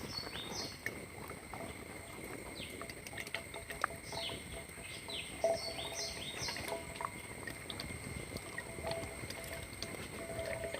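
Quiet outdoor ambience with birds chirping in short, high, downward calls that come in small clusters, a few in the first second and more about four to seven seconds in, over scattered faint clicks.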